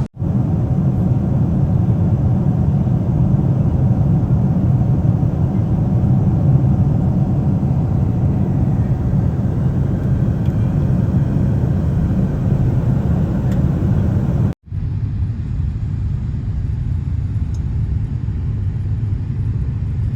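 Steady rumble of an airliner's engines and airflow heard from inside the cabin. It drops out abruptly twice, and after the second break, about three-quarters of the way through, it is a little quieter and duller.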